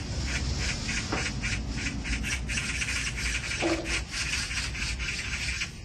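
A rapid, rhythmic chorus of animal calls, about four pulses a second, with a low rumble underneath; it cuts off just before the end.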